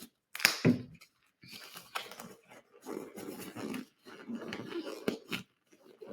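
Gloved hands handling medical supplies and packaging: irregular rustling and crinkling, with a louder sharp knock about half a second in and a couple of sharp clicks near the end.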